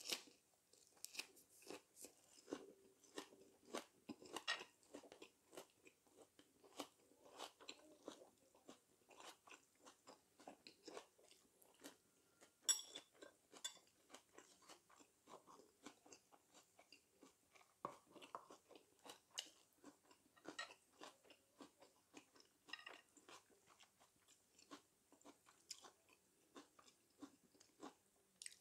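Close-up chewing and crunching of a mouthful of lettuce wrap with stir-fried chicken and vegetables, many short crunches and wet mouth clicks in a steady run. One sharp click near the middle.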